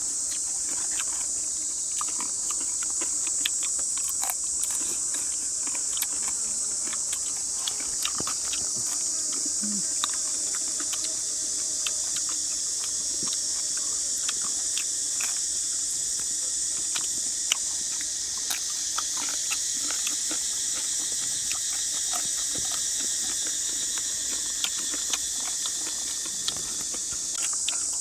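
Steady high-pitched insect chorus, like cicadas or crickets, with scattered sharp clicks and ticks throughout.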